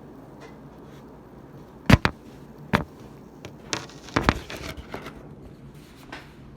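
Handling noises from eating at a table: two sharp knocks about two seconds in, another shortly after, then a run of crackling clicks and a last click near the end.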